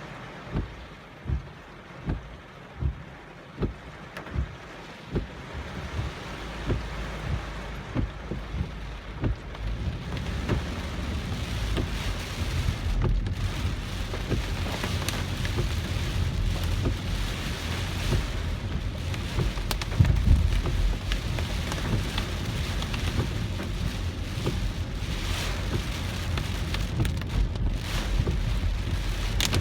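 Typhoon rain pelting a moving car, with the dense patter of heavy rain and the low rumble of the car driving on a flooded road. For the first few seconds regular low thumps come about every three-quarters of a second. The rumble and rain noise build up from about six seconds in and then stay loud.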